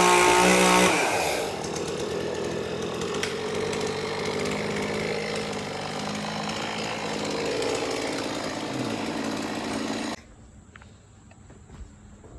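Chainsaw engine running at high revs, its pitch falling about a second in to a lower, steady run, then cutting off suddenly about ten seconds in.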